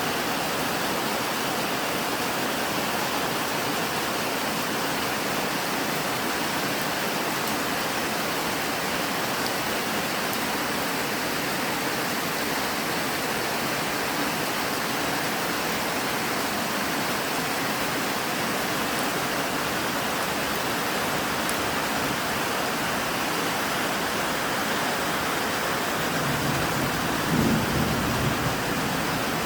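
Steady, heavy rain falling, an even hiss with no break. Near the end a low rumble of thunder swells up.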